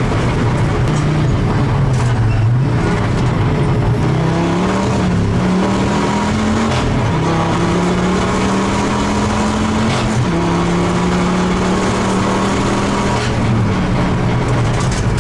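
Ford Focus RS race car's turbocharged engine heard from inside the cockpit under hard acceleration on track. The pitch climbs with the revs and drops sharply at two upshifts, about seven and ten seconds in, then holds and eases off near the end, over steady road and wind noise.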